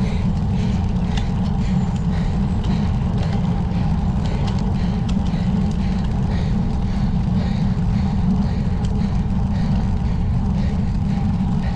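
Steady wind rumble on the microphone of a cyclist riding a road bike, loud and low.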